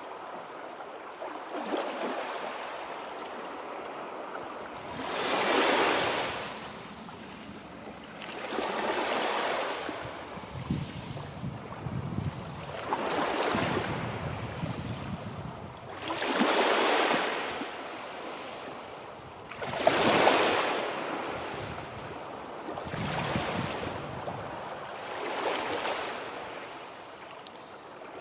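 Sea waves breaking and washing on a shore, one surge after another every few seconds, each swelling and fading away.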